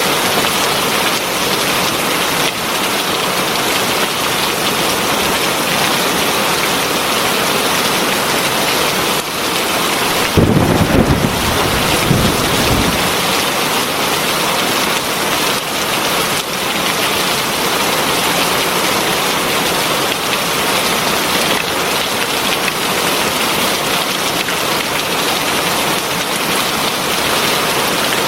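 Heavy rain falling steadily, with a low rumble of thunder about ten seconds in that lasts two or three seconds.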